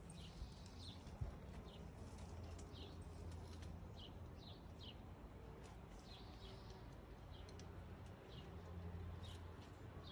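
Small birds chirping faintly, short high chirps coming irregularly several times a second, over a steady low hum.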